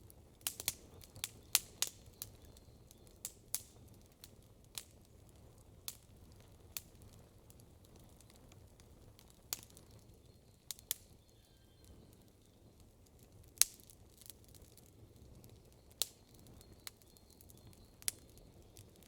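Wood campfire crackling: sharp irregular pops and snaps, a quick cluster in the first two seconds, then scattered pops, over a faint low rumble. The loudest pop comes about two-thirds of the way through.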